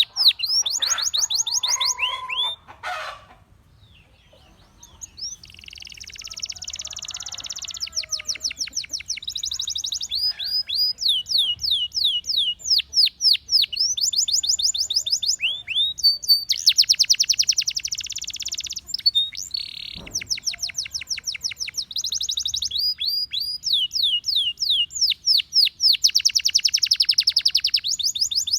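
Gloster canary singing: fast trills of repeated high, downward-sweeping notes, delivered in phrases, with a short lull a few seconds in before the song picks up again.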